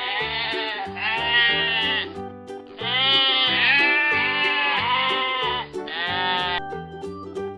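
Recorded goat bleating, several wavering calls in a row, over children's background music with a steady beat; the bleats stop about a second before the end, leaving only the music.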